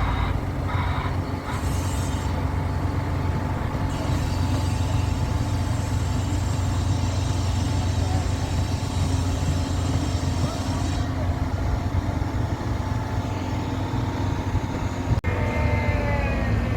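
A steady, low engine hum runs throughout. About fifteen seconds in there is a brief dropout, followed by a few falling tones.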